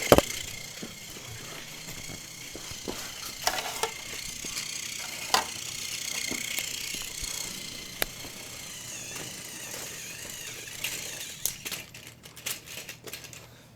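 Battery-powered TOMY toy train running on plastic track: a steady motor whine that wavers in pitch, with scattered clicks and rattles that come thick and fast near the end.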